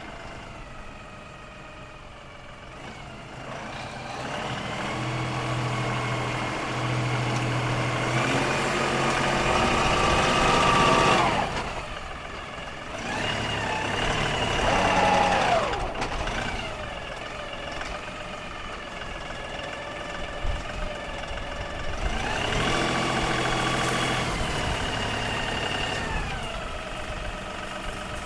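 LS XR3135 compact tractor's diesel engine running as it digs, rising in pitch and getting louder under load three times before dropping back toward idle.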